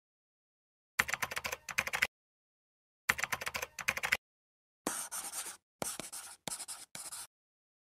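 Sheet of origami paper being folded and creased by hand: six separate strokes of crackling and scratching, two of about a second each, then four shorter, smoother swipes as a fold is pressed flat.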